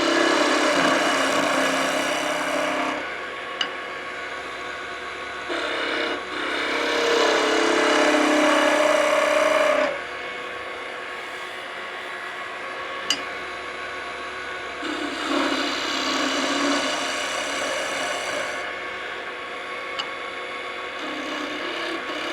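Skew chisel cutting a spinning hickory spindle on a wood lathe, in about four passes of a few seconds each. Between the passes the lathe runs with a steady hum.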